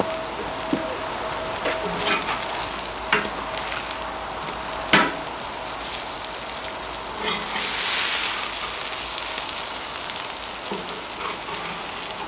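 Grated old-pumpkin pancakes sizzling in oil on a cast-iron cauldron-lid griddle, with a metal fork and wooden spatula clicking against the pan a few times, sharpest about five seconds in. The sizzle swells louder for a second or two about eight seconds in.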